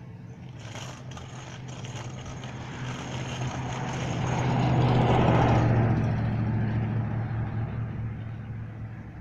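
A road vehicle driving past, its engine hum and tyre noise growing louder to a peak about five seconds in, then fading away.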